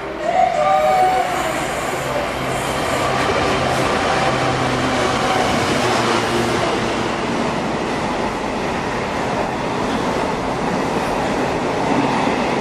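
Container freight train running through the station on the main line: a steady rumble of wagons on the rails, with a brief warbling tone about half a second in.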